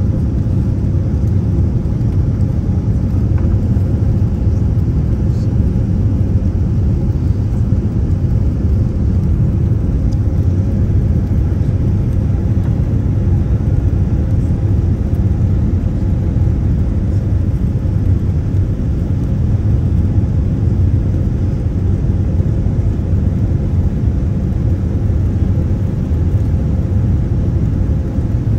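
Steady low rumble of a jet airliner's cabin noise, the engines and airflow heard from inside the passenger cabin, unchanging throughout.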